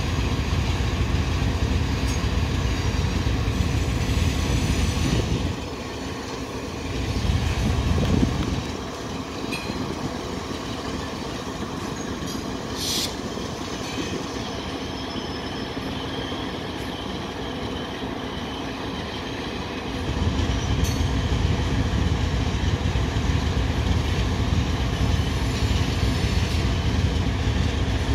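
Loaded coal hopper cars rolling slowly past on a yard track, with a heavy low rumble from the train and a diesel locomotive close by. The low rumble eases off about five seconds in, swells briefly, and comes back strong about twenty seconds in. There is a single sharp metallic clank about thirteen seconds in.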